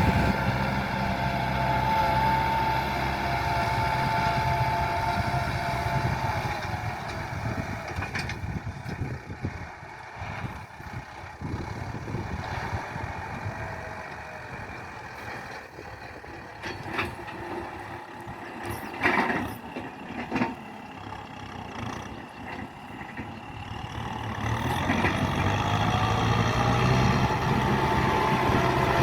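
John Deere tractor engine running under load while ploughing. It is loud and close at first, fades away after about six seconds, and grows loud again over the last few seconds as it comes back near. Faint scattered knocks are heard in the quieter middle.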